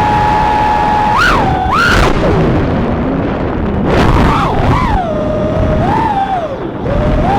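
3-inch FPV quadcopter's brushless motors and propellers whining, the pitch swinging up and down with the throttle: two quick punches a little after a second in, then a series of dips and swells near the end.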